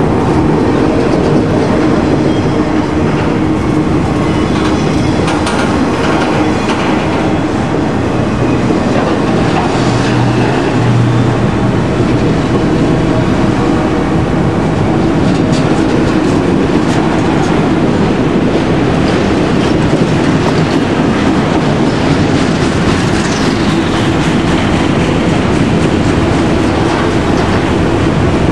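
Autorack cars of a long freight train rolling past at speed: steady loud wheel and rail noise with clickety-clack of wheels over rail joints. About twenty-three seconds in, a brief high squeal falls in pitch.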